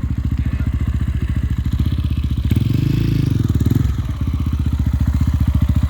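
Enduro motorcycle engine running with a fast, even beat, revving up and back down about two and a half seconds in.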